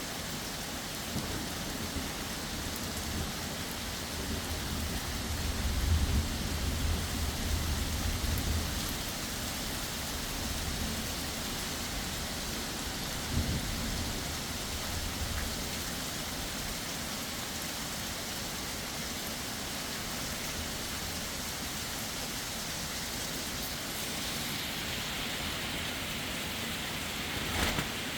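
Heavy rain falling steadily with an even hiss. A low rumble of thunder builds a couple of seconds in, is loudest around six seconds and fades, and a shorter rumble follows around the middle.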